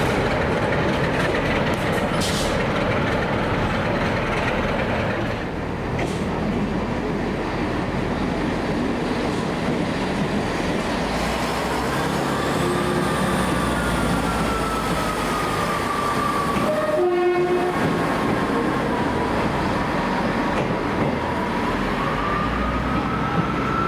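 Train running through on clattering wheels, with a long wavering wheel squeal in the second half and a short horn note about two-thirds of the way through.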